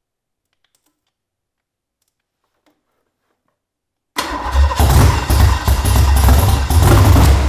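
Ford 302 small-block V8 being started for the first time after its rebuild: about four seconds in, the starter cranks and the engine fires and runs loud and uneven for about three seconds, then cuts off near the end and dies away.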